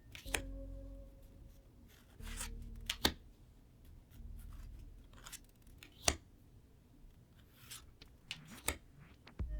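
Trading cards being handled: cards sliding and rustling against each other, with several sharp clicks and snaps a few seconds apart.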